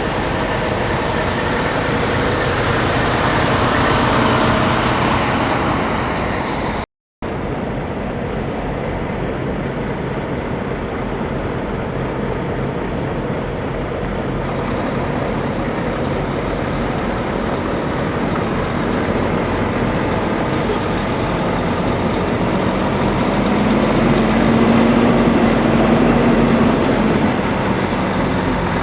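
Semi trucks passing on a road: a steady wash of diesel engine and tyre noise. The sound drops out to silence for a moment about seven seconds in, and near the end a truck engine's hum comes up.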